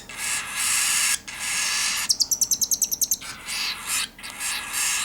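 Baby cockatiel squalling: harsh, raspy begging calls repeated with short breaks, with a fast stuttering run of about ten pulses a second near the middle. It is the chick begging its parent for food.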